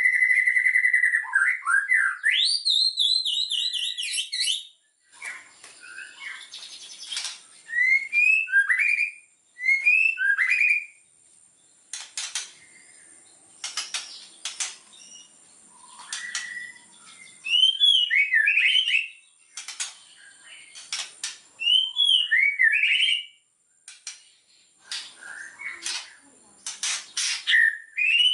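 White-rumped shama (murai batu) singing: a long held whistle that climbs into a fast trill, then short phrases of quick upward-swept whistled notes mixed with sharp clicks, with brief pauses between phrases.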